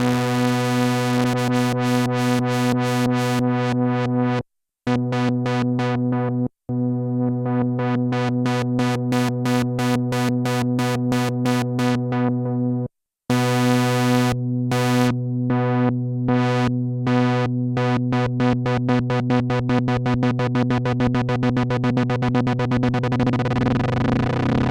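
A Sequential analog synthesizer holding one low note with a bright, buzzy tone, its upper harmonics pulsing in a fast rhythmic stutter that speeds up and slows down. The sound cuts out briefly three times.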